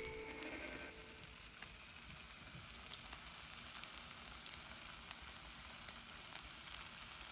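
Faint, steady sizzling hiss with scattered small crackles.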